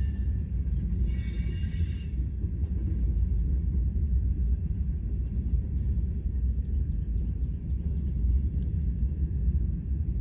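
Freight train cars rolling past with a steady low rumble. About a second in there is a brief high-pitched squeal, typical of wheel flanges on a curve, and faint light clicks come later.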